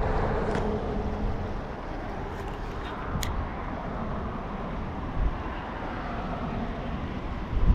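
A vehicle passing on a road near the creek: traffic noise whose pitch slides gradually down, over a steady low rumble.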